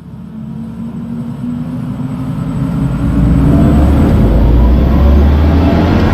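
Audi e-tron GT's synthesized electric-car driving sound: a deep hum with layered whining tones that rise in pitch, swelling much louder over the first three seconds and then holding.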